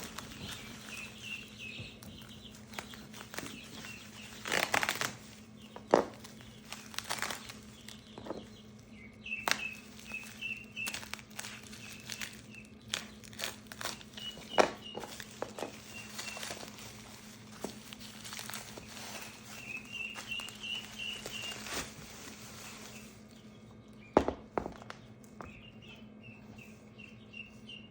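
Packaging crinkling and scattered knocks and clicks as a boxed hydraulic cylinder is unwrapped and handled. Baby chicks and ducklings peep in runs of short, high cheeps in the background. A steady low hum runs underneath.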